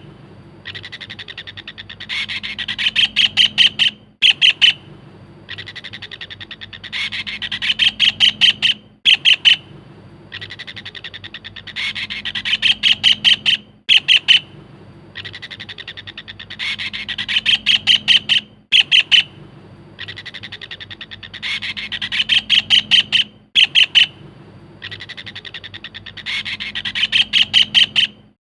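Kingfisher calling: a fast, high rattling series of notes that grows louder and ends in a few separate sharp notes. The phrase repeats about every four to five seconds, as in a looped lure recording.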